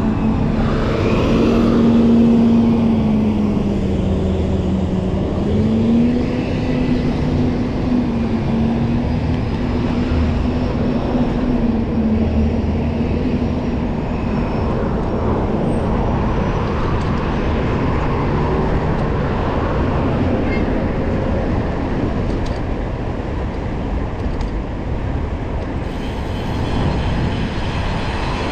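Road traffic: a motor vehicle's engine hum with a slowly wavering pitch for about the first twenty seconds, over steady road noise.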